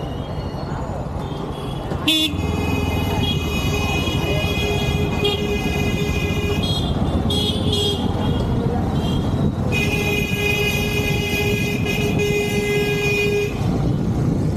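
A horn sounding in long held blasts, starting about two seconds in and stopping near the end, with a choppy stretch in the middle, over steady road and wind noise from riding in traffic.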